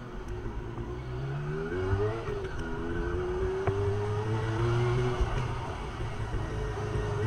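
Honda CB400 Super Four's inline-four engine pulling away: the revs climb, drop suddenly about two seconds in, then climb again more slowly.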